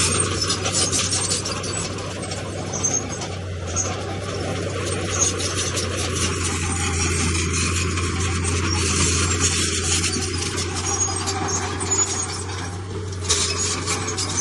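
Heavy diesel earthmoving machinery running steadily, with stone and rubble scraping and clattering throughout.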